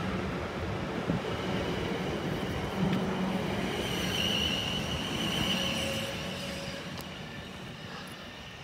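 South Western Railway Class 450 electric multiple unit pulling out of the platform, with rumbling wheel and running noise and a high steady tone partway through. The sound fades away after about six seconds as the last carriage passes.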